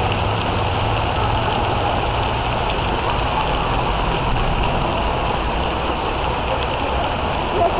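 Heavy thunderstorm rain pouring onto paving and puddled water, a steady dense hiss.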